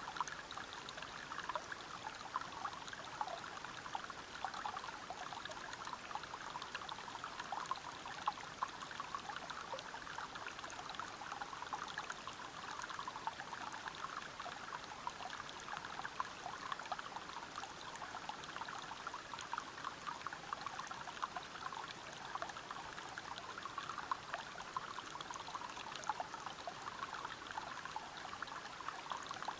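River water running over rocks below a small waterfall: a steady rush of flowing water full of small splashes, unchanging throughout.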